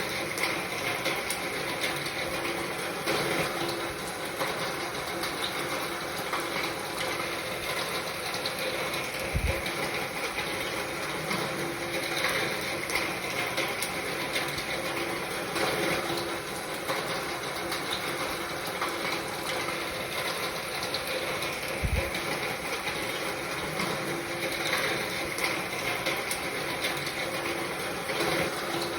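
Steady rain falling, a dense patter of drops. Twice a brief low thump sounds, about nine and twenty-two seconds in.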